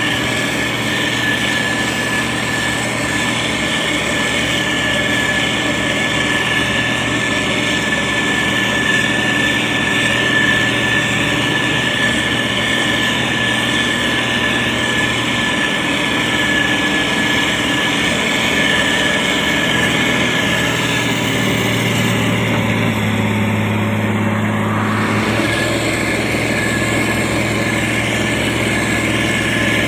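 Heavy diesel engine of a SANY STG190C-8S motor grader running steadily, with a steady high whine over it. For a few seconds about two-thirds of the way in, the low engine note changes and grows stronger.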